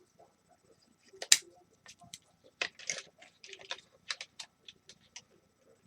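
Irregular light clicks and taps of small plastic and metal parts and hand tools being handled while a space heater is dismantled, the sharpest click about a second in.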